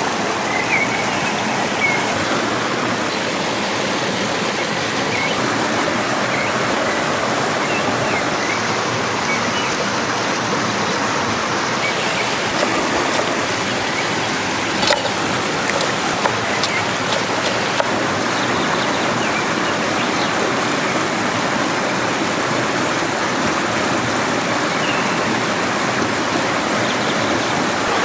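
Stream water rushing steadily, with a few faint short high chirps now and then and a handful of sharp clicks about halfway through.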